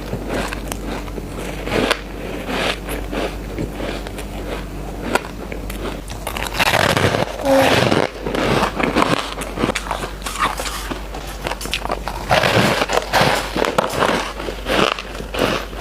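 Close-up sounds of a person biting and chewing shaved ice: squeaky, crunchy bites with a dense crackle of many small clicks, louder crunches coming in bursts a few times.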